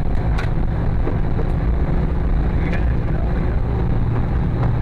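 Rally car engine running steadily at low revs, a low, even rumble with a few faint sharp ticks over it.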